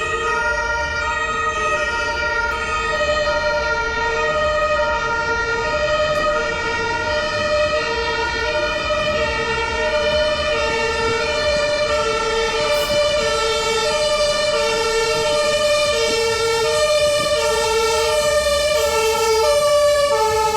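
Two-tone emergency vehicle siren, the German Martinshorn, alternating evenly between a low and a high note about every 0.7 s. It grows slightly louder near the end, over a low traffic rumble.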